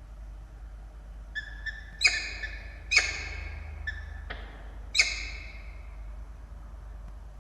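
Peregrine falcons calling: a string of short, sharp calls, with the three loudest about two, three and five seconds in, each trailing off.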